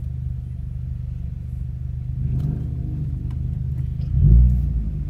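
Car engine heard from inside the cabin, running low and steady at slow speed, revved briefly a little over two seconds in, then revved louder near the end with the pitch rising and falling.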